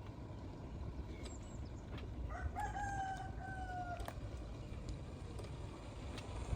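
A rooster crowing once, a drawn-out call a little over two seconds in that falls slightly in pitch, over a steady low rumble.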